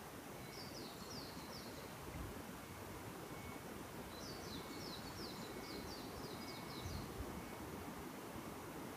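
A small songbird singing two quick phrases of short, high, repeated notes, the first about half a second in and the second, longer, from about four to seven seconds in, over a steady low rustle of wind in the trees.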